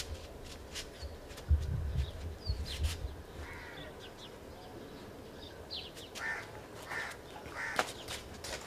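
A few short harsh bird calls, the first about three and a half seconds in and three more close together near the end. Earlier there is a loud thump followed by a low rumble and scattered clicks.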